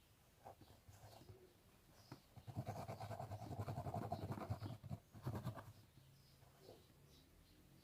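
Fingernails scratching a scalp through hair. A dense, rapid run of scratching from about two and a half to five and a half seconds in, with light, scattered scratches before and after.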